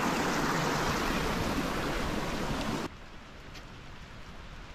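Steady rush of heavy rain and water running over a rocky path, cutting off suddenly about three seconds in to a quieter sound of falling rain.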